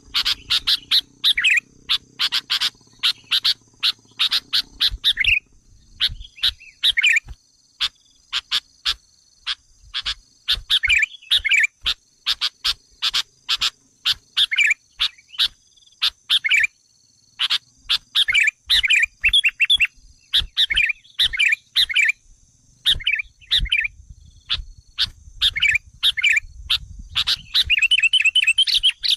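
Sooty-headed bulbul lure calls: quick runs of short, sharp chirps and brief warbled phrases, broken by short pauses.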